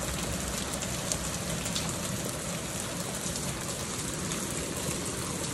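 Heavy rain falling steadily, a dense hiss with many sharp ticks of individual drops.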